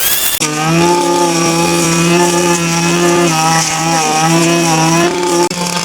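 A motor-driven power tool running at a steady speed, its pitch sagging slightly now and then as if under changing load, with a brief break near the end.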